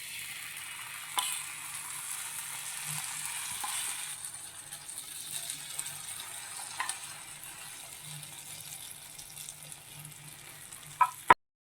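Dora-cake batter sizzling in a buttered pan: a steady frying hiss, broken by a few light taps and two sharper clicks near the end before the sound cuts off.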